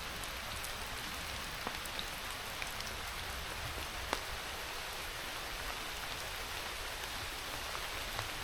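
Steady monsoon rain falling, with a few single drops striking close by now and then.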